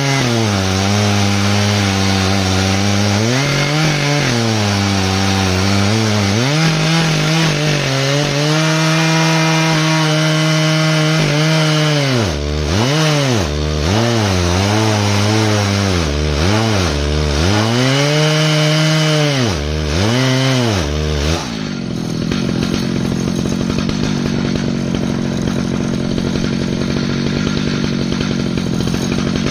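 Stihl MS 881 two-stroke chainsaw on an Alaskan chainsaw mill, cutting lengthwise through an ash log; the engine note wavers under load, then dips and recovers several times in quick succession. About three quarters of the way through, the engine note drops to a lower, steadier running.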